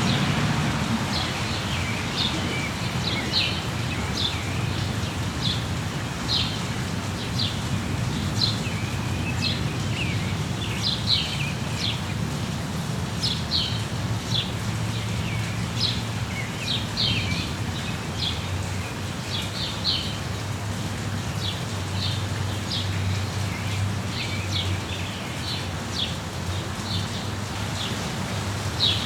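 Small birds chirping, short high chirps about two a second throughout, over steady rain and a low steady rumble.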